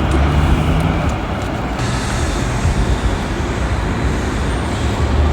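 Steady rumble of vehicle traffic.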